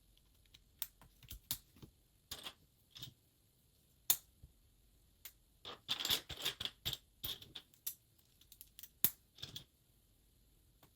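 LEGO bricks being handled and pressed together: irregular sharp plastic clicks and short rattles, busiest about halfway through.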